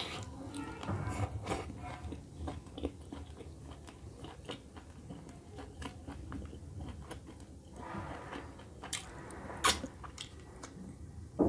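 Close-up chewing and biting of chicken curry and rice eaten by hand: wet mouth smacks and clicks throughout, with a few sharper clicks, the loudest a little before the end.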